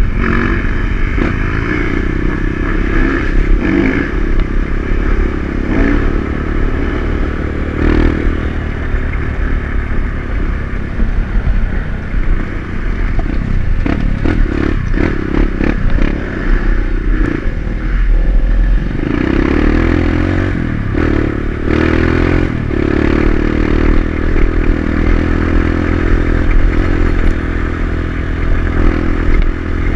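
Dirt bike engine running at varying throttle on a trail ride, with clattering knocks from the bike over rough ground in the middle stretch. The engine gets louder and steadier about two-thirds of the way through.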